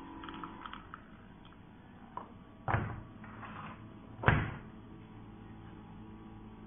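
Aicok portable espresso machine's pump running with a low, steady hum while it pushes water through the capsule, broken by two sharp knocks about a second and a half apart.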